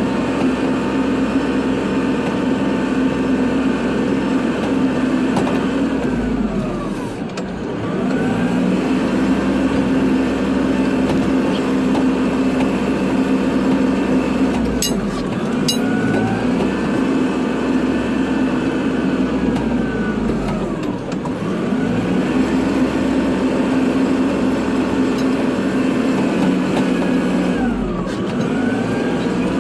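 Kubota tractor's diesel engine running under load while plowing snow, its speed dipping and climbing back four times, about every seven seconds. Two short high ticks come about halfway through.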